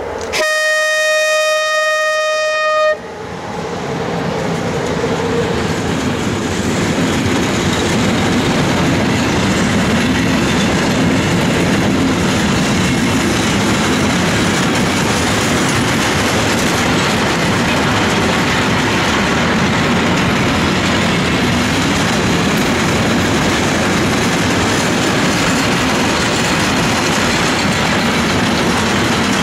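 The horn of a Romanian class 40 (EA) electric locomotive sounds one steady note for about two and a half seconds as the locomotive passes, then cuts off. A long train of loaded container flat wagons follows, rolling past steadily with the wheels clattering on the rails.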